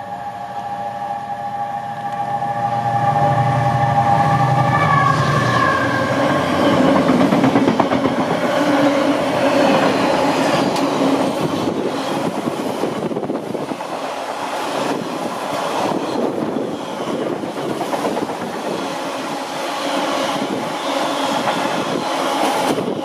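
Colas Railfreight Class 70 diesel locomotive sounding its horn as it approaches at speed, the horn's pitch dropping as the engine passes about five seconds in, its diesel engine running loudly under the horn. Then a long rake of empty flat wagons rattles and clatters past over the rail joints.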